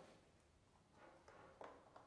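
Near silence: room tone, with a few faint light clicks in the second half.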